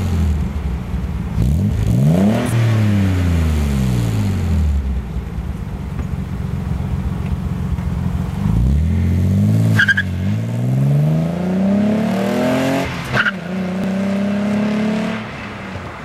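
Nissan 300ZX's naturally aspirated 3.0-litre V6 through a Stillen cat-back exhaust, idling and revved up and back down three times. There are two sharp cracks near the tops of the later revs, and the engine holds a higher note briefly before dropping back about a second before the end.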